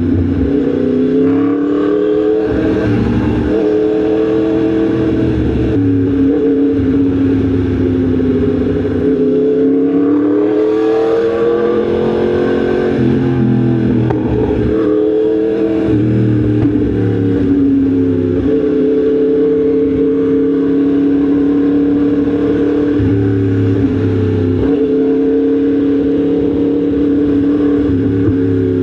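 Yamaha MT-10 SP's crossplane inline-four engine running under way, its pitch rising and falling with the throttle, with a sharp drop about halfway through before it climbs again.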